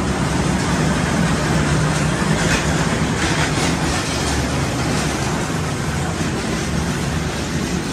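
Steady low hum and rumble of an electric suburban train at a station platform, under the general din of the platform, with a few faint scrapes near the middle.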